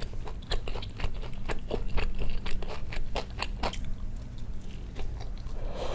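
Close-miked biting into and chewing a pan-fried egg-battered pollock fillet (dongtae-jeon), with many small, sharp crackles and wet mouth clicks, thinning out near the end.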